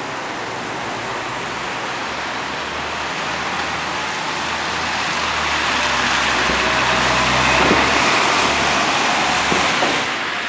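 City street traffic: a steady hiss of road noise with a vehicle's engine growing louder as it approaches, loudest about eight seconds in.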